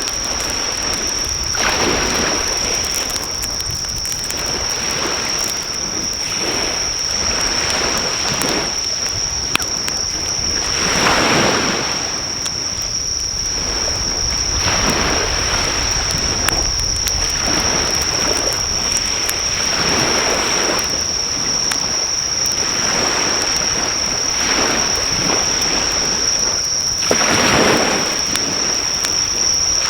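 Sea waves washing onto the shore, swelling and falling every few seconds, under a steady high-pitched insect trill, with faint crackles from a driftwood campfire.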